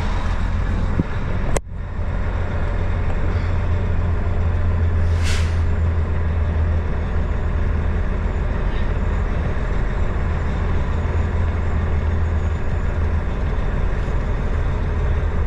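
Steady low drone of a diesel pickup truck's engine and road noise, heard from inside the cab while it drives slowly. There is a sharp click about one and a half seconds in and a short hiss about five seconds in.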